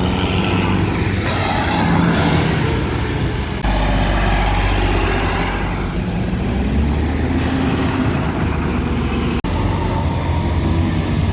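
Tractor engines running as tractors drive along in a road run. The sound changes abruptly every few seconds.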